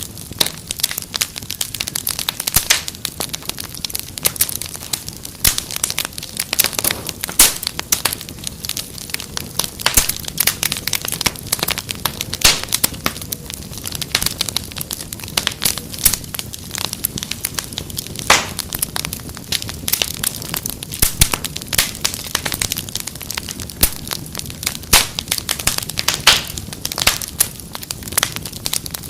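Wood fire crackling and popping in a fireplace: a dense, irregular stream of sharp snaps over a soft low rumble of flames.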